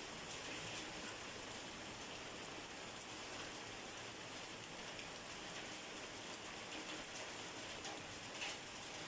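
Steady rain falling on a surface, an even hiss with a few individual drops ticking through it.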